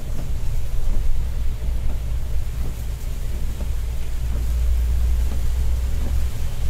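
Steady low drone of a Scania K410iB coach cruising at highway speed, engine and road noise heard from inside the bus.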